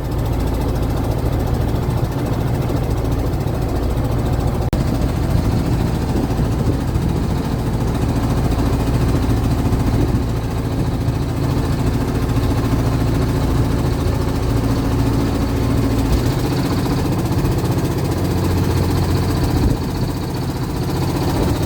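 Long-tail boat engine running steadily, with a constant low drone throughout.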